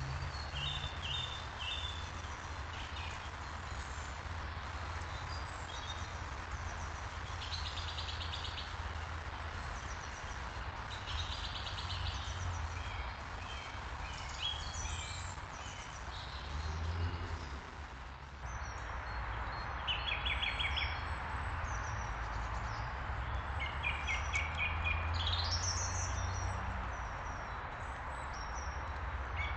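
Small woodland birds singing, with short chirps and trilled phrases repeated throughout, over a steady background hiss and low rumble.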